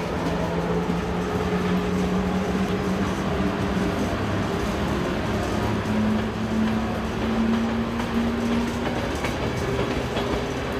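A train running at a station platform: a steady rumble with a motor hum that rises in pitch about halfway through and drops back near the end.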